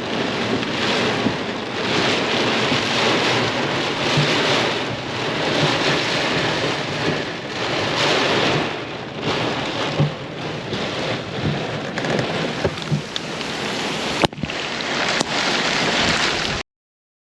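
Heavy rain pouring down in surges, heard from inside the vehicle, with scattered sharper drop ticks; it cuts off suddenly about a second before the end.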